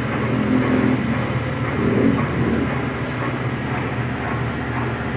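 Electrolux LTD13 13 kg top-loading washing machine spinning down from its final spin: a steady mechanical rumble and motor hum with a fast low pulsing from the turning drum, as the machine slows toward the end of its cycle.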